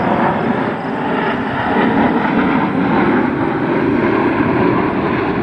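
Jet engine roar from a formation of Blue Angels F/A-18 Super Hornets flying overhead, loud and steady.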